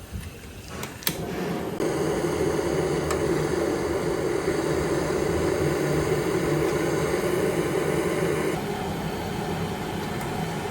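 A small motor running steadily, starting about two seconds in and dropping in level near the end, after a single click about a second in.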